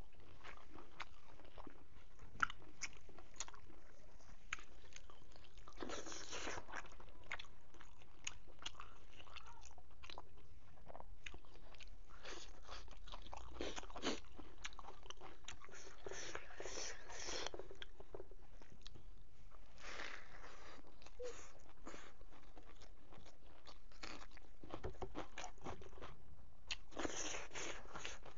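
A person chewing mouthfuls of rice, pork and leafy greens eaten by hand, with many short mouth clicks and louder spells of chewing every few seconds.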